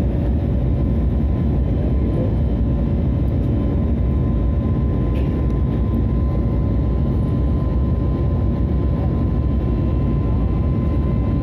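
Airliner cabin noise: the steady drone of the engines and airflow heard from inside the cabin, with a faint steady whine running through it.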